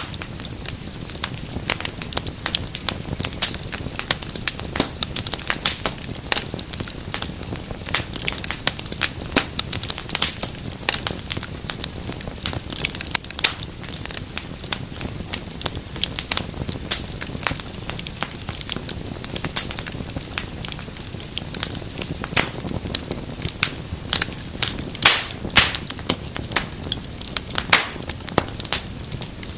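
Wood fire crackling continuously, with dense irregular snaps and pops over a low steady rumble of burning, and a few louder pops near the end.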